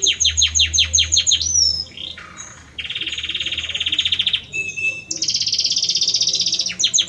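Male Belgian canary singing a varied song. It opens with a fast run of repeated down-sweeping notes, about eight a second, and moves through a buzzy trill, a long rapid rattling trill and a few short clear whistles. A high trill follows, and the sweeping notes return near the end.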